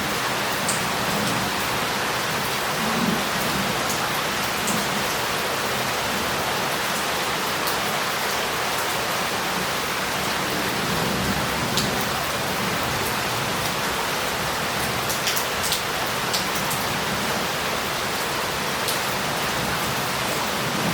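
Steady heavy rain pouring onto roof tiles and a paved street, with scattered sharp drops ticking close by.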